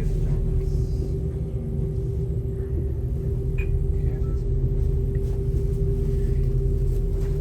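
A passenger train running: a steady low rumble with a constant hum through it.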